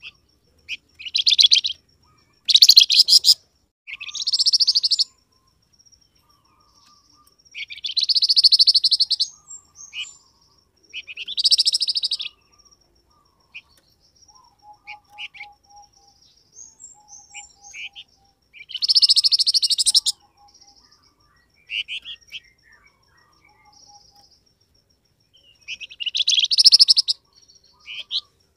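Songbird sold as 'flamboyan' singing in loud bursts of about a second each, eight or so rapid trilling phrases with softer short chirps between them, played as a lure call.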